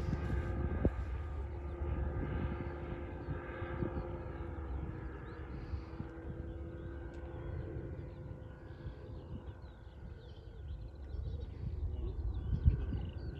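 Small propeller aircraft's engine droning overhead, its pitch dropping slightly as it passes and then fading away.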